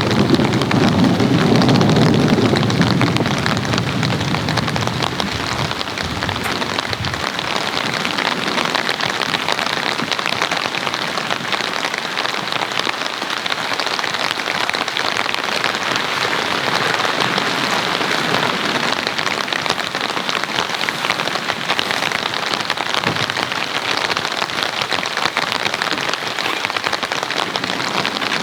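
Heavy rain falling steadily on an inflatable tent. A low roll of thunder fades out over the first five seconds or so.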